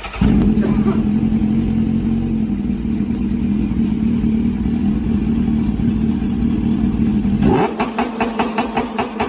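Kawasaki H2's supercharged inline-four running through an aftermarket exhaust, holding a loud, steady note. About seven and a half seconds in, the sound changes to a fast, even pulsing of about five beats a second.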